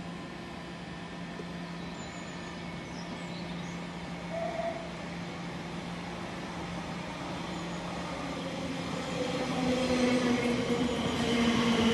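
A train approaching and growing louder over the last few seconds, with a whine that falls slightly in pitch.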